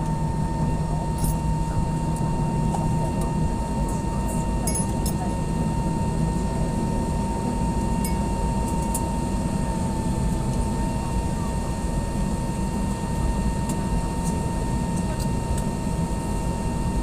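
Steady cabin hum inside an Airbus A320, a low rumble with a constant high whine over it, the air-conditioning and aircraft systems running. A few faint clinks come and go.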